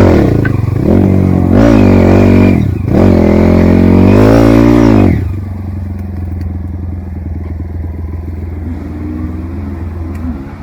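Trail motorcycle engine revved hard in several bursts, its pitch repeatedly rising and falling, then settling to a steady idle about five seconds in.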